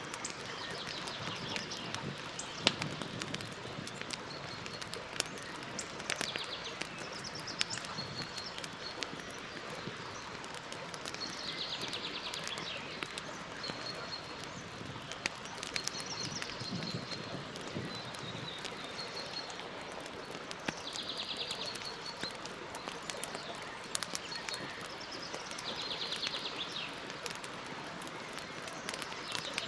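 Campfire crackling, with many small snaps and an occasional sharper pop, over a steady hiss. Birds call and trill in short phrases several times in the background.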